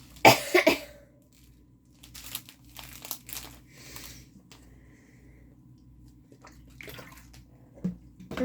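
Plastic crinkling and rustling from a diamond painting kit being handled, in scattered bursts. There is a short, loud throat sound about a quarter second in.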